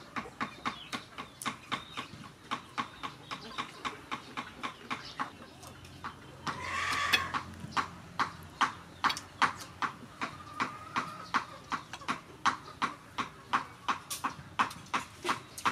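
Close-up chewing of crunchy food, crispy fried meatballs and raw cucumber, as a steady run of sharp crunches about three a second. A brief louder noise comes about seven seconds in.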